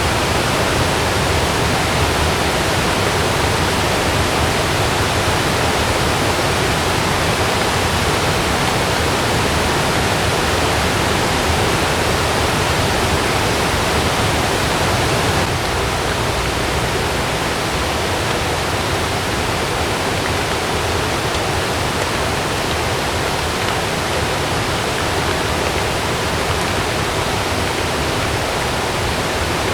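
Heavy rain, a dense steady hiss; it becomes slightly quieter about halfway through.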